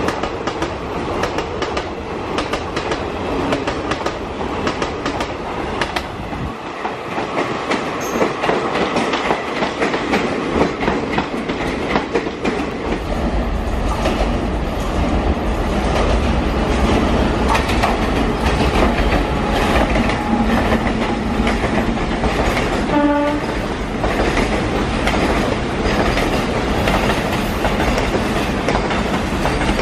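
Passenger train coaches run past with wheel clatter over the rail joints. About halfway through, a WAG9H electric locomotive hauling covered car-carrier wagons comes in with a heavy low rumble, and its wagons clatter past. About two-thirds of the way in, a train horn gives one short blast.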